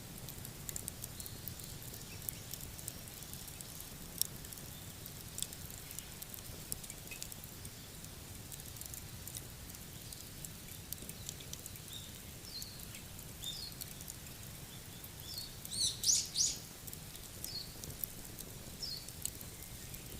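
Wood fire crackling, with sharp little pops scattered throughout. A bird chirps in short high calls in the second half, loudest in a quick cluster about three-quarters of the way through.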